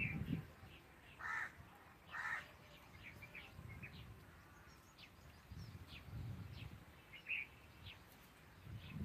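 Birds calling in open farmland: two louder calls about a second apart near the start, then many short high chirps from small birds, over a low uneven rumble.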